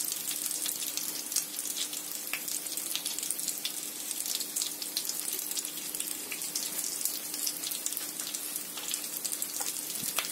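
Potato-filled yeast-dough pies (pirozhki) frying in vegetable oil in a pan, their second side browning: a steady sizzling hiss with many small crackling pops.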